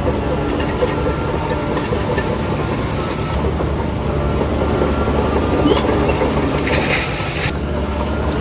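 Crawler bulldozer's heavy diesel engine running steadily under load, with a clatter of its steel tracks. A brief hiss of air comes about seven seconds in.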